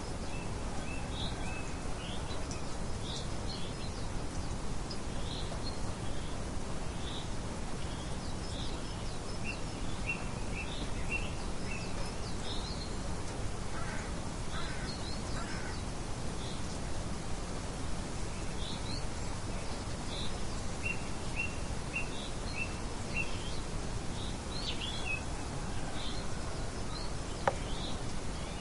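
Steady wind-like outdoor noise with small birds chirping in short, high calls throughout, some in quick runs of several notes. A single sharp click comes near the end.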